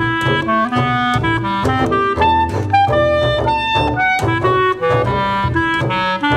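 Clarinet and double bass playing contemporary improvised-style music. The clarinet runs through a fast stream of short, jumping notes, several a second, over low bass notes.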